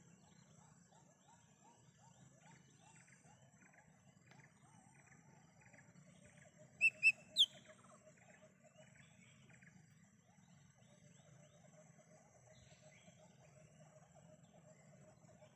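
Lesser green leafbird calling in the wild: three sharp, loud whistled notes in quick succession about seven seconds in. Fainter rapid chirping and other bird calls run throughout, over a steady high-pitched insect drone.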